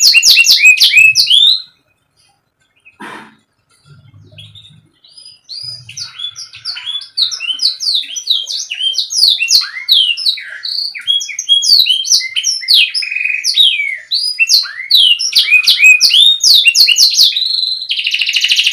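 Domestic canary singing in fast repeated chirps and trills. It breaks off about two seconds in, then resumes a few seconds later and runs on in a long, continuous string of trilled phrases.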